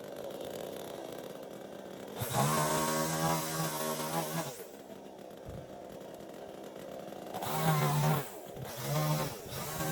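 Chainsaw running at a low idle and revved up in bursts: one longer burst about two seconds in, then three short ones near the end.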